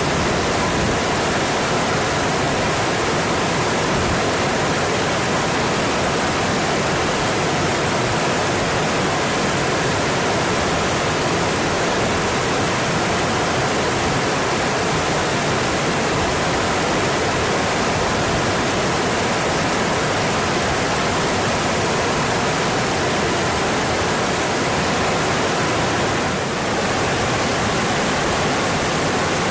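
Mountain stream flowing: a steady, full rush of water.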